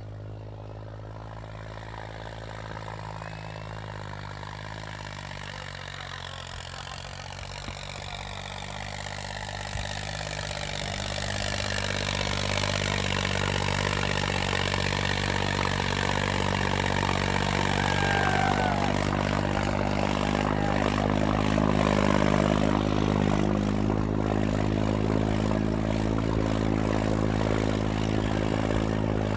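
John Deere 5310 tractor's diesel engine running steadily. It grows louder between about a third and two fifths of the way in, then holds at that level.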